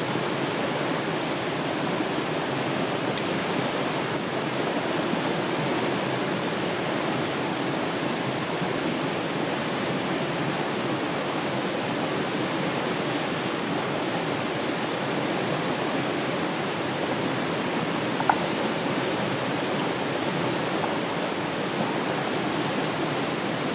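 A river flowing steadily over rocks, with an even rush of water and one faint click about 18 seconds in.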